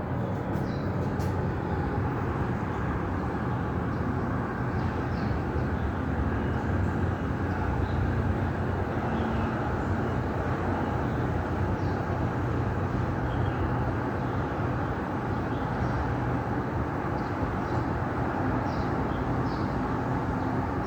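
Steady rumble of distant city traffic, with faint short high chirps here and there.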